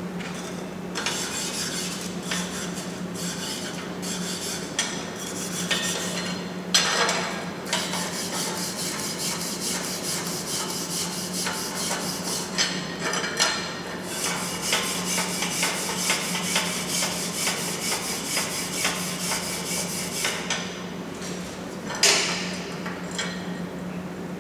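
Electric arc welding: a dense, steady crackle over a low hum, breaking off briefly about seven seconds in and again near the end, with a short louder burst just before the end.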